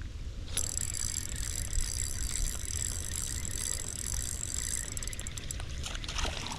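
Daiwa Luvious 2500 spinning reel being cranked, a steady high whir starting suddenly about half a second in, as a fish is reeled in. It stops with a few clicks near the end, over a low rumble of wind and handling on the camera mic.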